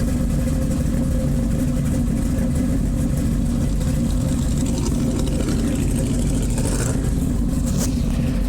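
A car engine running at a steady idle, a deep, even rumble.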